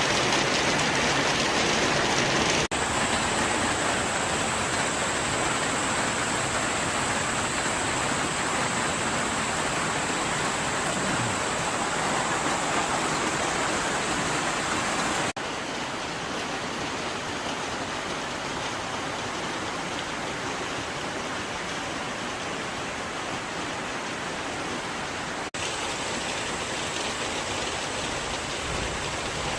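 Moderate rain falling steadily: an even, continuous hiss. The level shifts at three abrupt breaks along the way.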